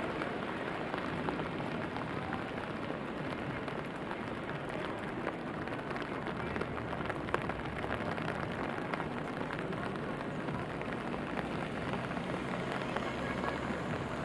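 Steady rainfall with many small drop impacts ticking through it.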